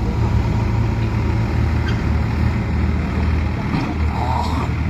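Diesel engine of a backhoe loader running steadily, with a brief higher-pitched sound about four seconds in.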